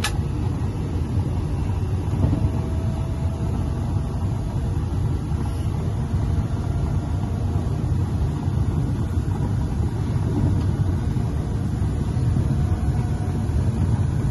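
Trenord ETR 521 'Caravaggio' electric multiple unit running along the line, heard from inside the driver's cab as a steady low rumble. A short click right at the start and a faint thin whine briefly a couple of seconds in.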